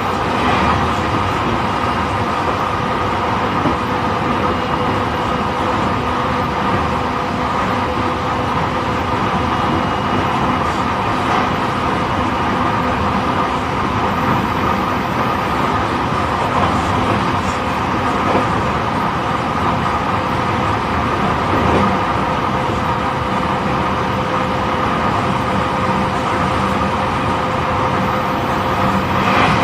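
E531 series electric train running at steady speed, heard from inside a motor car (MoHa E530): even rumble of wheels on rail with a steady tone held over it.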